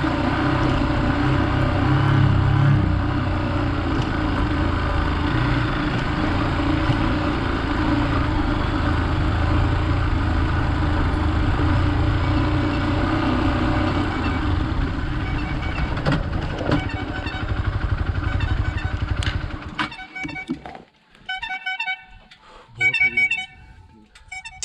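Hero Xpulse 200's single-cylinder engine running under way, with heavy wind and tyre noise. About twenty seconds in it cuts off suddenly, and a few short bursts of a high pitched tone follow.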